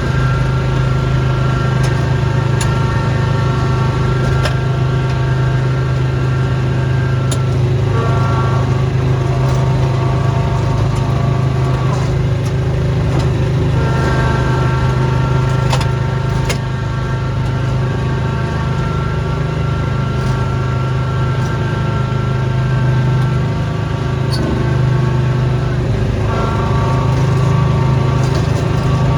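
Snowblower's small gasoline engine running steadily at working speed, its note shifting slightly every few seconds, with a few sharp clicks.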